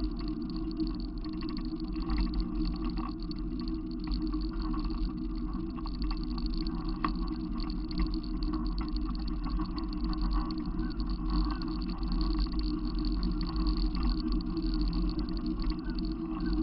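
Steady low rumble of a vehicle running, unbroken throughout with no distinct events.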